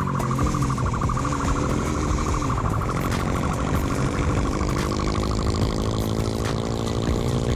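Vehicle engine running steadily at a near-constant pitch, as heard in police chase footage.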